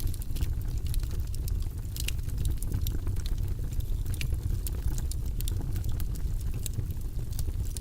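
Wood fire in a fireplace burning with a steady low rumble of flames and irregular sharp crackles and pops from the burning logs.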